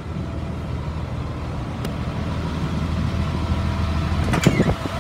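Blue Bird All American school bus engine idling steadily with a low, even hum, with a few short clicks near the end.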